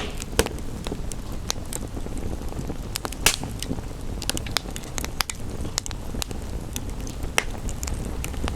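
Wood fire crackling, with irregular sharp snaps and one louder pop about three seconds in, over a steady low background hiss.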